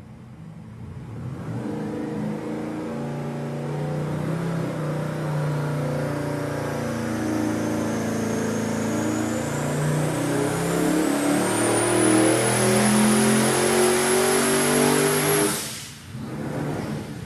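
A 428 cubic inch twin-turbo Ford V8 on an engine dyno makes a full-throttle pull through 3-inch Dynomax Bullet straight-through mufflers. The engine note builds steadily for about fourteen seconds, with a high whine climbing over it, then cuts off abruptly near the end, followed by one brief smaller blip.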